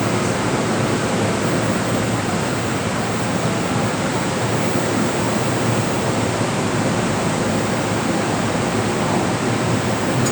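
MTR Kwun Tong Line M-train electric multiple unit running steadily, a loud, even rush of wheel and running noise with no breaks.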